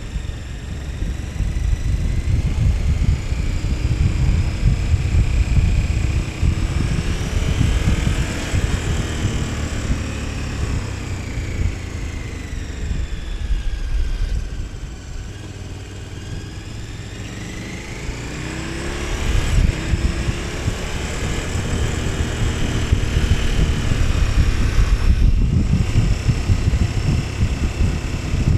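KTM 1290 Super Adventure S's 1301 cc V-twin engine on the move, its pitch rising under acceleration, falling away as the rider slows mid-way, then rising again, over a steady low rush of wind noise.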